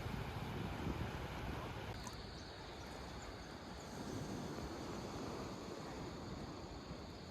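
Wind rumbling on the microphone over the wash of the sea. About two seconds in the sound changes abruptly to a slightly quieter, steadier take.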